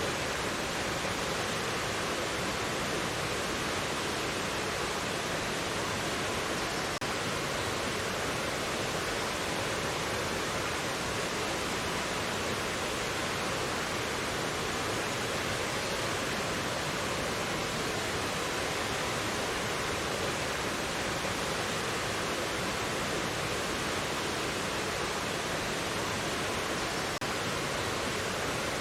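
Mountain stream water rushing over rocks in a steady, even flow.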